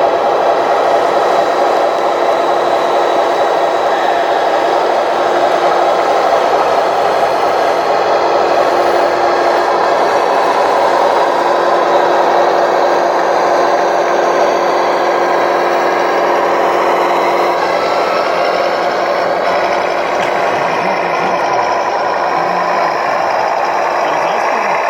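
Radio-controlled construction models running: a steady mechanical whirring and rattling of small motors and gears, with a steady hum that stops about two-thirds of the way through.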